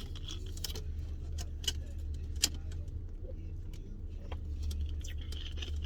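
Steady low hum of a car idling, heard inside the cabin, with a few light clicks and taps spread through it.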